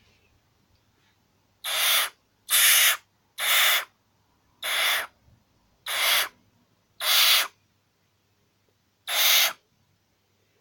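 Barn owl hissing: seven rasping hisses of about half a second each, roughly one a second with a longer pause before the last, which the owner reads as the owl being grumpy.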